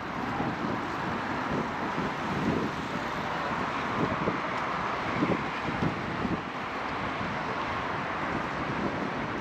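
Steady rush of road traffic, an even wash of tyre and engine noise with no single vehicle standing out.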